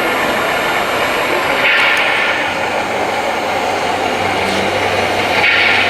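1:14-scale RC construction machinery running: a steady mechanical whir with hiss that swells twice, about a second and a half in and near the end.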